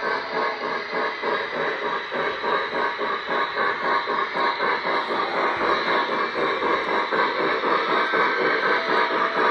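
O-gauge Lionel Legacy model steam locomotive's sound system chuffing in a steady rhythm of about three beats a second, with the train running on the track and slowly growing louder.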